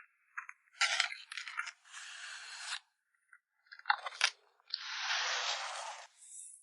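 Photocard packing materials being handled: a cluster of small clicks and taps, then a stretch of sliding rustle, and the same again, the second rustle longer and louder.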